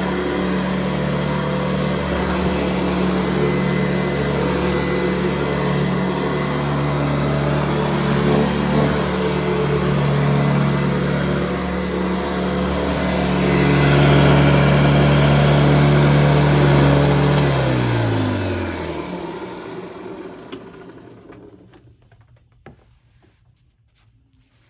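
Upright vacuum cleaner running steadily with a droning motor hum. About 18 seconds in it is switched off and the motor winds down, its pitch falling as it fades out, leaving a few faint clicks.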